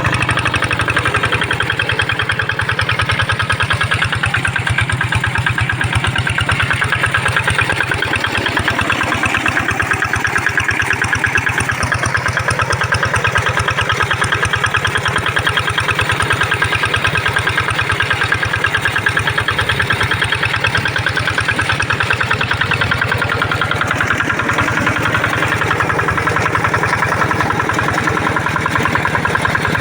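Kato hand tractor engine running steadily with a rapid, even chugging, pulling a single plow.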